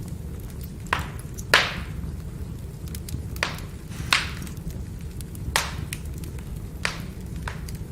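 Firewood burning: a steady low rumble of the fire with small crackles and about seven sharp pops, the loudest about a second and a half in.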